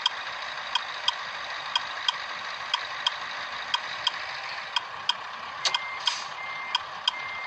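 A vehicle's flasher relay clicking in on-off pairs about once a second over a steady hiss. Near the end there is a brief burst of noise, then a short high beep that repeats about every 0.7 s.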